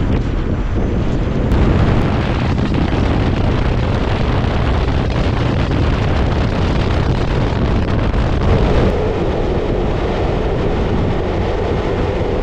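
Wind buffeting the microphone of a moving motorcycle, over steady engine and road noise. A steadier hum comes in about two-thirds of the way through.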